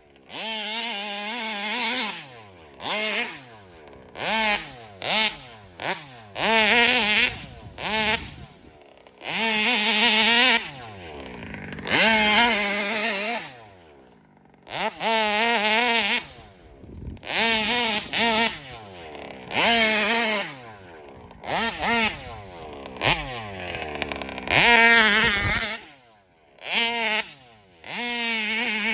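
Large-scale RC car's two-stroke gas engine being driven hard, revving up in repeated bursts and dropping back between them as the throttle is blipped on and off.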